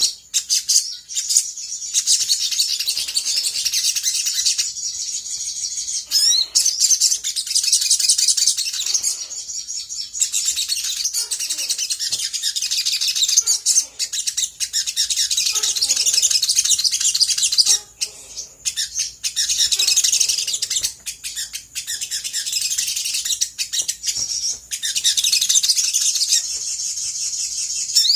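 Olive-backed sunbird singing in full voice: a dense, almost unbroken run of high, rapid chirps and trills, with a short break about eighteen seconds in.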